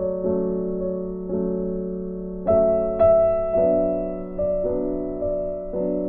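Background music: a slow, gentle piano tune, single notes and chords struck about once a second and left to fade.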